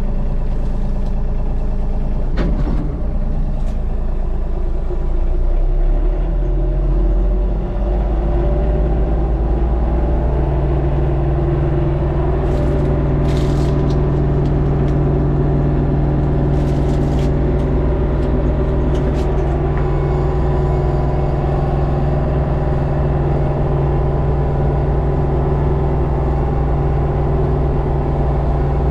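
LS MT232 compact tractor's three-cylinder diesel engine running steadily under load while its brush hog cuts through thick, high brush; the engine note firms up about ten seconds in. A few short sharp cracks sound near the middle.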